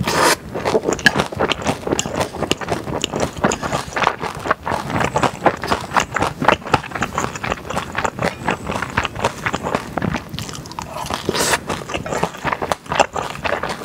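Close-miked mouth sounds of eating stir-fried noodles with beef: steady chewing with rapid wet clicks and smacks, and a short slurp of noodles at the start.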